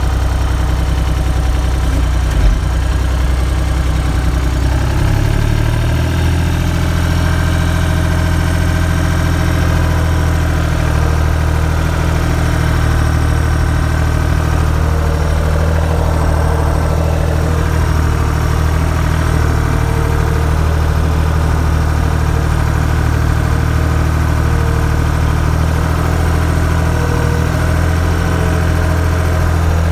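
Skid steer engine idling steadily while warming up, its speed stepping up slightly about five seconds in.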